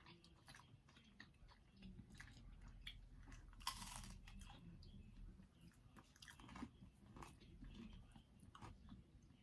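Faint chewing and biting of pizza, with scattered small crunches and mouth clicks, and one louder crunch about four seconds in.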